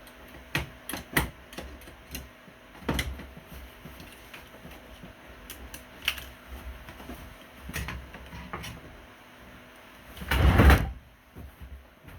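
Scattered clicks and knocks of hand work with tools, with a louder noisy burst lasting under a second about ten seconds in.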